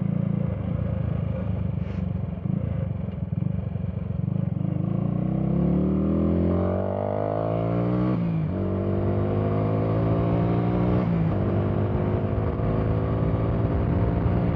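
Minsk D4 125 motorcycle engine pulling under acceleration. Its pitch rises, drops sharply at an upshift a little after halfway, climbs again, and shifts once more before settling into a steady cruise.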